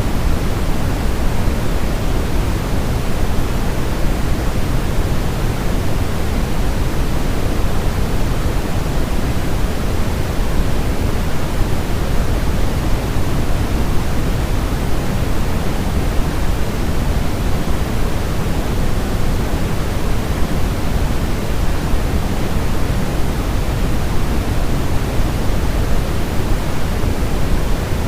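Steady, unchanging white noise with more weight in the low end than the high, like a deep hiss. It is a sleep-noise track meant to soothe a crying baby.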